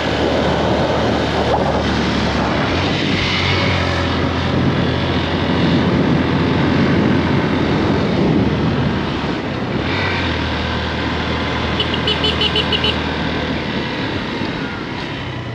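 Motorcycle engine running steadily while the bike is ridden, with rushing wind and road noise over it.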